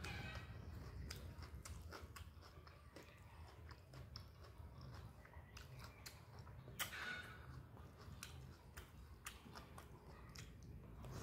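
Close-miked chewing and mouth sounds of someone eating rice and fish curry by hand: soft, wet clicks and lip smacks scattered throughout, one louder smack a little past halfway.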